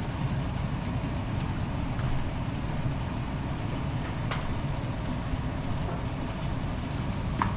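Kitchen exhaust fan running steadily with a low rumble and a faint constant whine, with a few light clicks.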